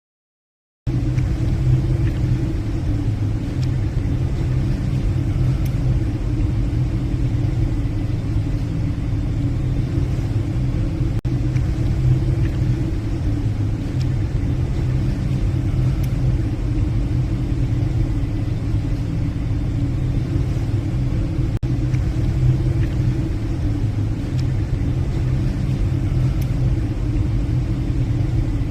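Passenger ship's engines and machinery droning steadily on the bridge, a constant low rumble with a steady hum, cutting in abruptly about a second in.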